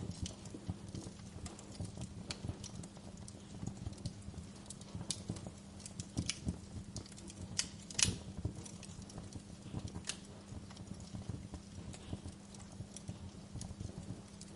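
Wood fire crackling in a fireplace: irregular snaps and pops, the loudest about 8 seconds in, over a low steady hum.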